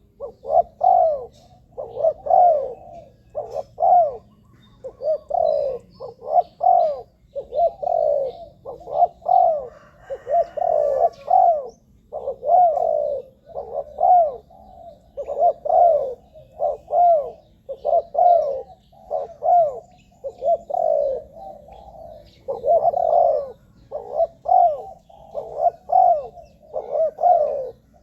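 Spotted dove cooing over and over: a steady run of short, low, bending coos grouped in quick phrases with brief pauses between them.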